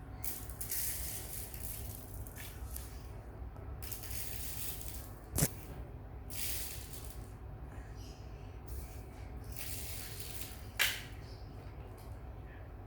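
Dry rice grains being scooped and poured, in short rattling hisses every second or so, with two sharp knocks, about five seconds in and again near eleven seconds.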